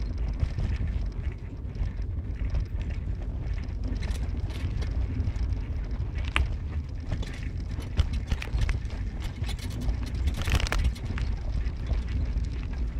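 Car on the move heard from inside: a steady low road and engine rumble, with scattered light knocks and rattles.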